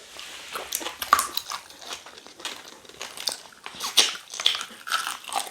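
Close-up eating sounds: a person chewing cow tail meat from a pepper soup, with irregular wet smacks and clicks from the mouth.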